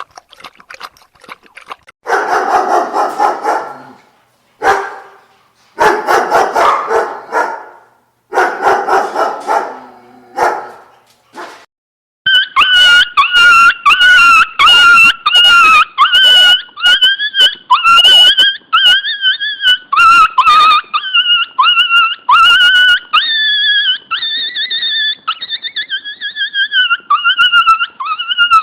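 A dog's sound-effect recordings: first several rough, noisy vocal bursts of about two seconds each, then, after a break about twelve seconds in, a dog whining and crying in a high, wavering pitch, broken into short repeated cries.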